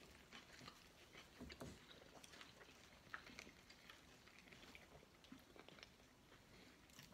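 Near silence with faint chewing and soft mouth clicks from people eating toasted sub sandwiches.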